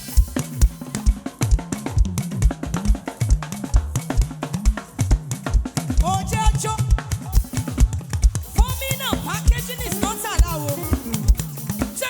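Live band playing an instrumental passage, led by a drum kit with a steady kick-drum beat, snare and a bass line. About six seconds in, a melodic line with bending, gliding notes comes in over the groove.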